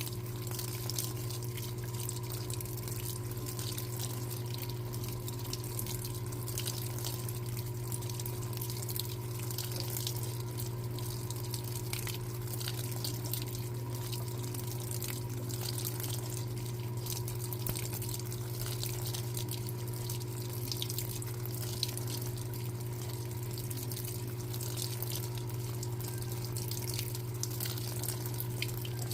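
Electrolux LTA15 top-loading washing machine with water running and splashing in its tub over a steady low electrical hum, unbroken and without agitation pauses.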